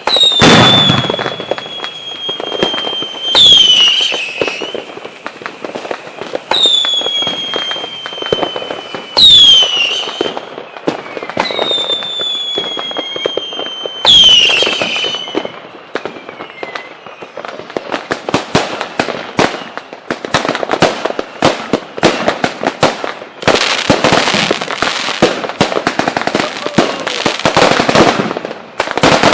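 Fireworks display: whistling fireworks about every three seconds, each a high whistle that slides down in pitch and then holds, with bangs underneath. From a little past halfway, dense rapid crackling takes over to the end.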